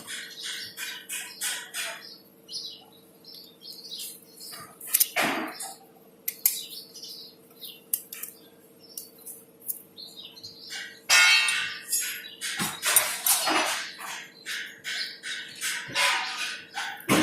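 Small birds chirping over and over, with a few sharp knocks and a rough scraping stretch a little past the middle.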